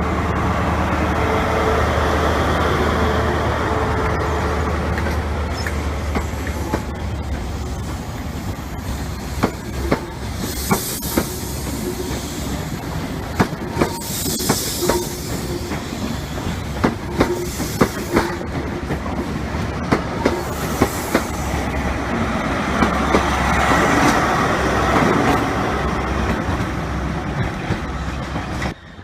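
A train running past on the rails: a low engine drone, then wheels clicking over rail joints with high wheel squeal through the middle. It cuts off suddenly near the end.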